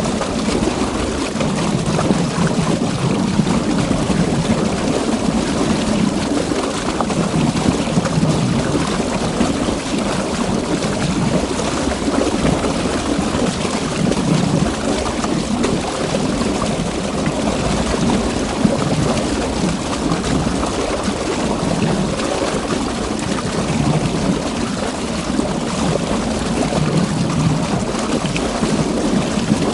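River water flowing, a continuous deep rush that swells and eases slightly every few seconds.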